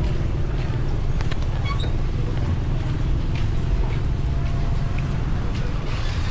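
Steady low rumble of road vehicles in traffic.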